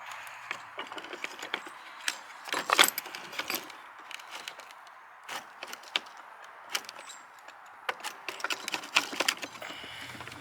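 Metal drill bits clicking and rattling in a plastic drill-bit case while one is picked out and pulled from its tight slot. The clatters are irregular and the loudest comes a little under 3 s in.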